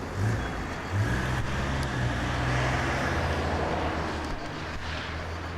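A motor vehicle's engine running, with a low hum and a noisy rush that grows louder in the middle and then fades.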